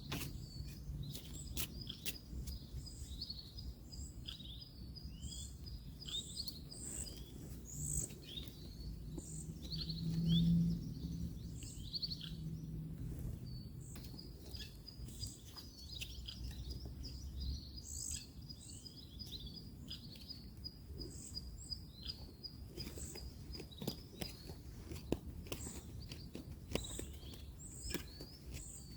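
Wild birds chirping and calling in frequent short notes, with a rapid high trill running for several seconds at a time, over a low rumble of distant road traffic that swells briefly about ten seconds in. Scattered light clicks.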